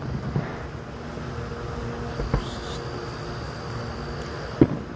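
Distant fireworks shells bursting: sharp bangs about two seconds in and again near the end, with a smaller pop early on. Under them runs a steady low hum.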